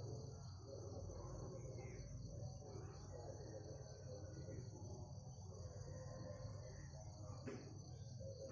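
Steady chorus of insects making an even, high drone, with faint, scattered bird calls beneath it and a low steady hum.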